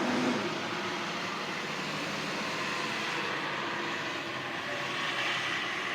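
Steady, even hiss of distant vehicle noise, with no distinct events standing out.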